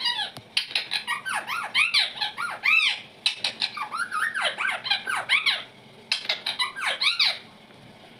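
Indian ringneck parrot chattering in a rapid string of short, squeaky, rising-and-falling calls that stop about seven seconds in.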